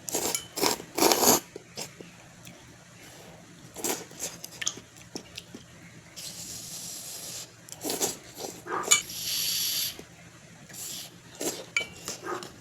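Eating noises: a utensil clinking and scraping against a dish, with chewing, in scattered short bursts and a couple of longer hissy stretches.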